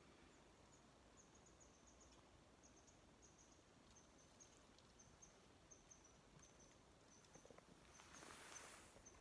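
Near silence with faint, short, high chirps in quick irregular runs throughout, from an insect or small bird, and a brief rush of hissing noise about eight seconds in.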